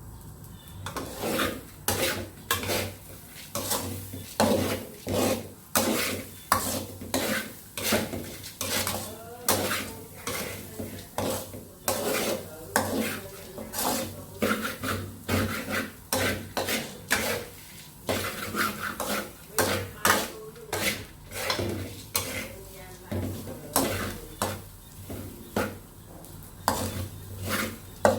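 A spoon or ladle stirring in a pot of rice porridge, scraping and knocking against the pot in a steady rhythm of roughly two strokes a second.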